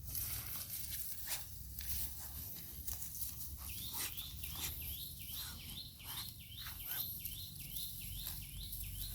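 A bird chirping repeatedly, short high calls at about two to three a second, starting about four seconds in, over faint rustling and crackling.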